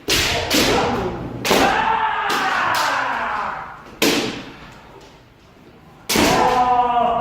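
Kendo sparring: a series of sharp cracks and thuds from bamboo shinai strikes on armour and stamping feet on the floor, with long drawn-out kiai shouts that fall in pitch, one starting about a second and a half in and another near the end.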